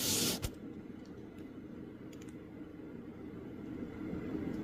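A brief rustle at the start, then quiet room tone with a few faint clicks about two seconds in.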